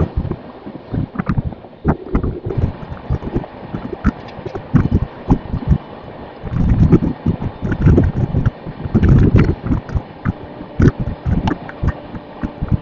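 Passenger train running, heard from on board, with irregular low thumps of wind buffeting the microphone over a steady rumble.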